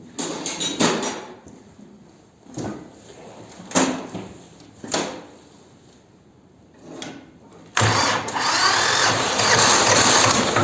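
Vladimir T-25 tractor being cold-started after sitting all winter: the electric starter is hit in several short bursts, then a continuous, louder mechanical noise from about eight seconds in.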